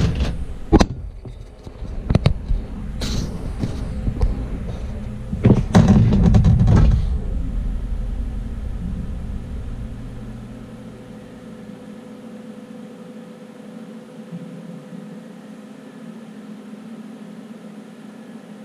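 Haas VF-3 CNC vertical mill starting its program: a few sharp clicks and knocks, then a loud rushing noise about five seconds in that stops at about seven seconds. A low rumble then dies away into a steady machine hum with a faint steady whine.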